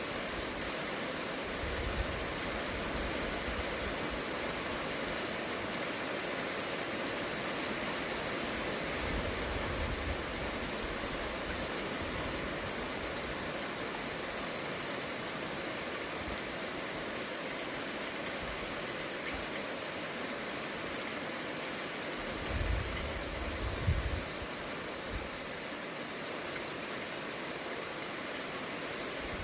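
Steady rain in a thunderstorm, falling as an even hiss, with a few brief low rumbles, the loudest about 23 to 24 seconds in.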